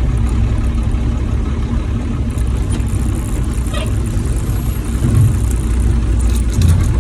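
Old Ford dump truck's engine running steadily, a low rumble.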